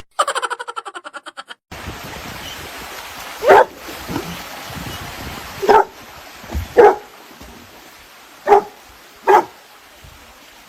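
A dog barking five single barks spaced a second or two apart, over a steady hiss. A short burst of rapid, even pulsing comes first.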